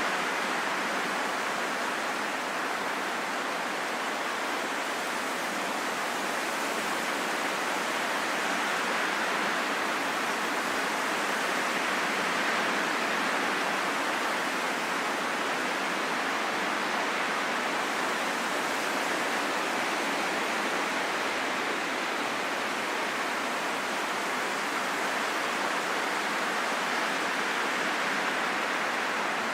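Steady rushing wind that swells and eases gently over several seconds, with no gusts or breaks.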